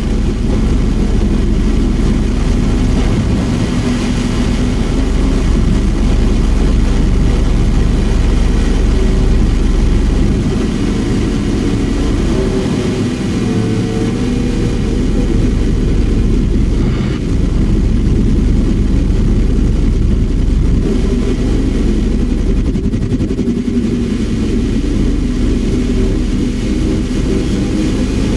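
Giant metal spring heard through a contact mic: a loud, continuous low rumbling drone with faint wavering tones above it, and one brief sharp click a little past halfway.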